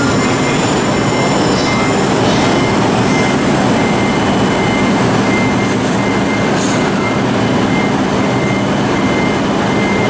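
Electric trains at a busy station platform: a loud, steady rumble with a faint high tone that pulses on and off, and a low hum through the middle seconds.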